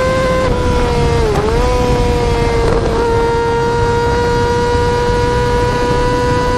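Yamaha R6 inline-four engine held at very high revs, a steady high-pitched scream. The pitch dips briefly and recovers about a second and a half in.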